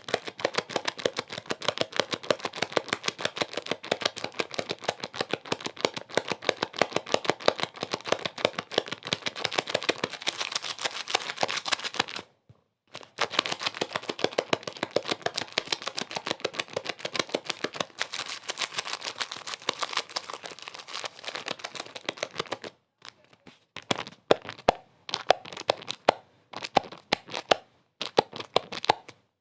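Dense, rapid crackling, many sharp clicks a second over a hiss. It cuts out briefly a little before halfway, and turns choppy with several short dropouts near the end.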